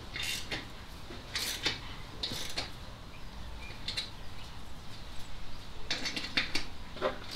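Hand tools working on metal: about seven short, sharp metallic scrapes and clicks at irregular intervals, a couple of them close together near the end.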